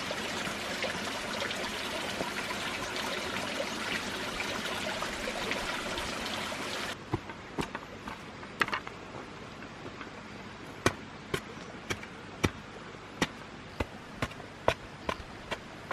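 Water trickling steadily, cutting off abruptly about seven seconds in. It is followed by a run of sharp, irregular knocks, about one or two a second.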